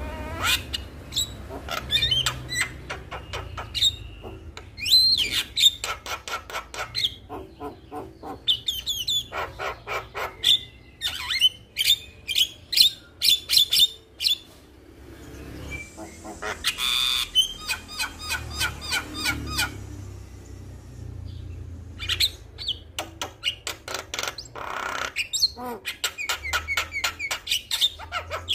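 Male Javan myna singing in long bursts: fast runs of repeated sharp notes mixed with short whistled glides and harsh chattering calls, broken by brief pauses.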